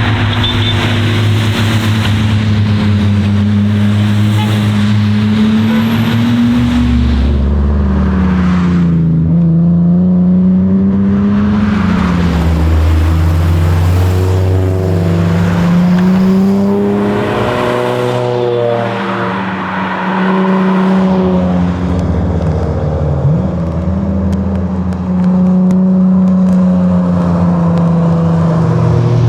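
Toyota MA70 Supra's straight-six engine driven hard, revving up and down through gear changes and lifts, its note rising and falling repeatedly.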